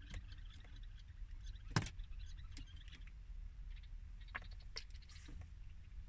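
Light scattered taps and clicks of bulbuls' feet and wings on a car's side mirror as the birds hop and flutter on it, with one sharper tap a little before two seconds in. Under them runs a steady low rumble.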